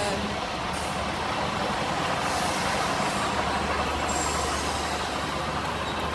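Class 153 and 150 diesel multiple unit running slowly through the station, its diesel engines giving a steady low hum under a broad, even rush of train noise.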